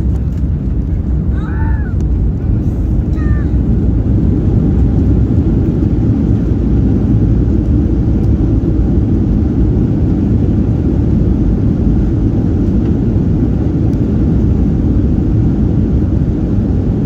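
Steady loud rumble of a Boeing 737-800's CFM56 engines and airflow heard inside the cabin. A couple of brief high chirps sound in the first few seconds.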